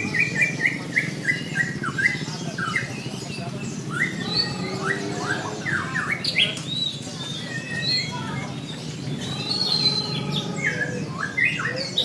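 White-rumped shamas singing, several at once: a continuous tangle of quick whistled notes, slurs and chips that rise and fall.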